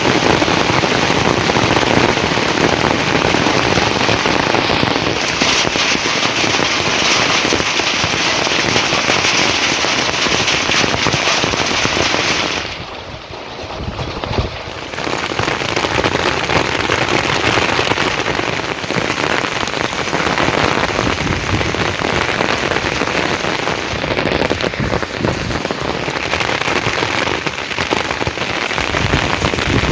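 Heavy rain falling as a steady, dense hiss of drops, dipping briefly quieter about thirteen seconds in before picking up again.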